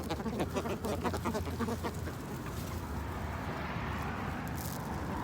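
A flock of birds calling: a rapid run of short calls in the first two seconds, then a steadier, noisier chatter.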